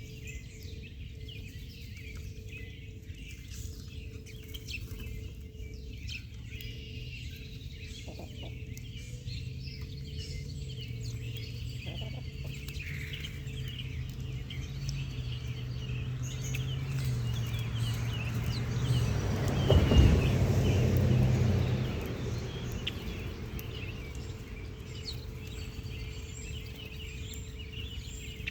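Chickens clucking and small birds chirping, with a low hum that builds to its loudest about twenty seconds in, then fades.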